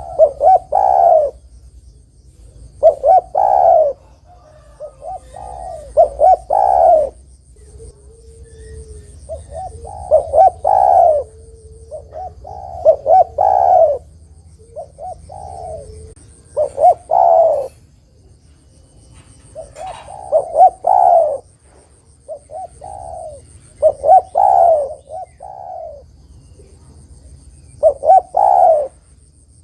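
Spotted dove (derkuku) cooing: short phrases of several hoarse coos, repeated every few seconds.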